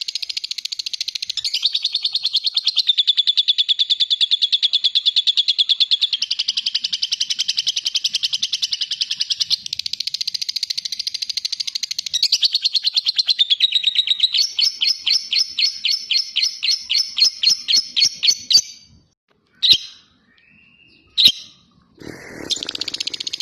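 Lovebird giving its long 'ngekek' chatter: a very fast, unbroken trill of high chirps that shifts pitch a few times. About two-thirds through it slows into separate chirps at roughly three or four a second, then breaks off. Two short single calls follow before the trill starts again near the end.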